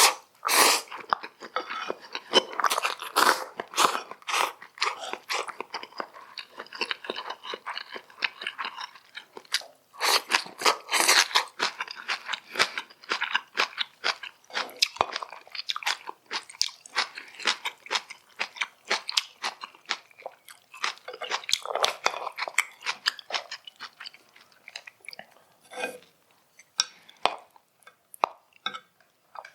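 Close-miked chewing and biting of food, a dense run of wet clicks and crunches, with a short pause about ten seconds in and thinning to scattered mouth clicks near the end.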